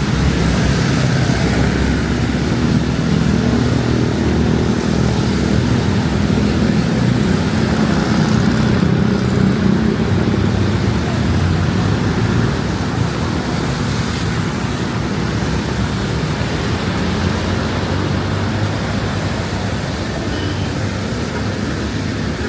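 Steady rain hiss mixed with a low rumble of road traffic, easing off slightly about halfway through.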